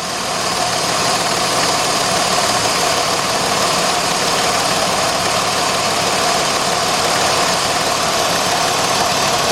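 A 2006 Jeep Grand Cherokee's 3.7-litre V6 idling steadily under the open hood, its number 3 ignition coil just plugged back in after a coil-disconnect misfire test.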